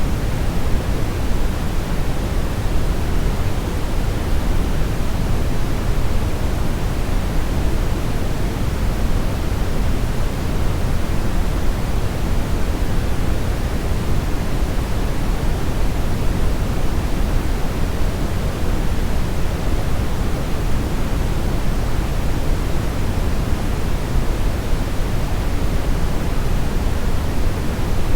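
Steady brownish noise: an even, continuous rumbling hiss weighted toward the low end, with no changes.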